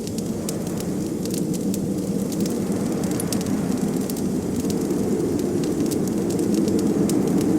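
Wood fire crackling with many small, sharp pops over a steady low rush of blizzard wind, which swells slowly.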